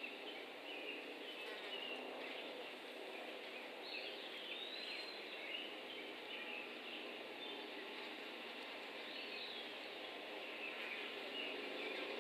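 Steady outdoor hiss with small birds chirping and calling on and off. A clearer, rising call comes about four seconds in and another about nine seconds in.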